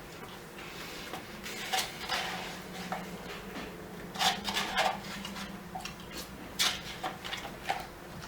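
A person eating tacos close to the microphone: irregular chewing, with wet smacks and clicks, a few louder ones around the middle.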